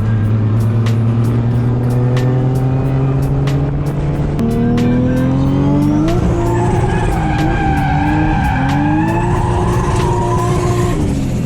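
Turbocharged straight-six drift car engine revving, its pitch climbing steadily, then tyres squealing with a wavering pitch from about six seconds in as the car slides, the engine falling back near the end. Background music with a steady beat plays over it.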